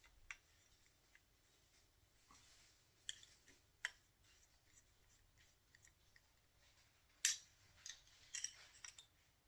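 Faint, scattered clicks and light scrapes of small helicopter kit parts being handled, with a few sharper clicks in the second half.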